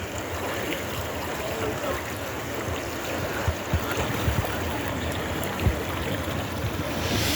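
Steady rush of flowing river water, with scattered faint low thumps and a brief louder burst of noise right at the end.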